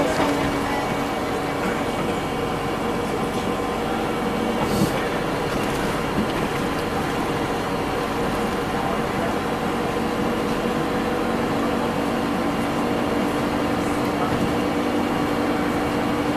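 Scania OmniLink CL94UB city bus heard from inside the passenger cabin while under way: a steady engine and drivetrain drone with road noise. A single short knock comes about five seconds in.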